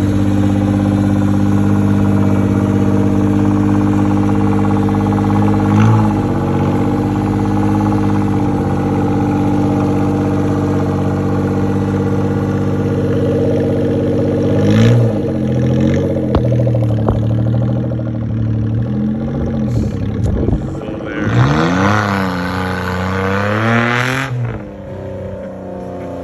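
Suzuki kei van's small engine idling steadily, blipped briefly a few times, then revved up and back down near the end before settling back to idle.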